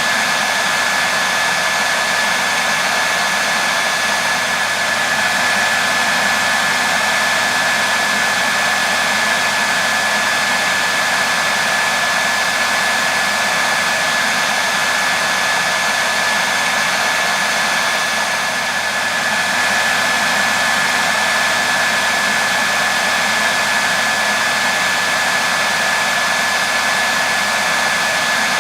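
Hair dryer running steadily: a continuous rush of blown air with a steady high tone from the motor.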